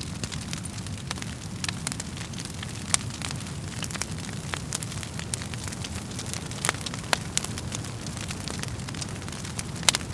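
Wood fire burning in a fireplace: a steady low rumble of flames with irregular sharp crackles and pops of burning logs, a few louder snaps about three seconds in and near the end.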